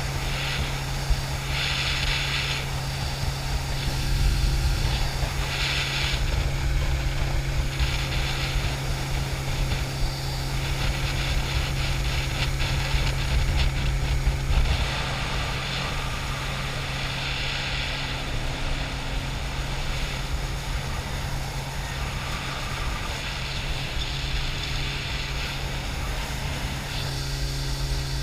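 80 hp jet boat engine running at a steady speed, a constant low drone, with patches of hiss coming and going every few seconds.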